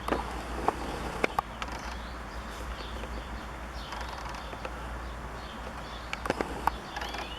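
Small songbirds chirping and singing, over a steady low rumble, with a few sharp clicks about a second in and again near the end.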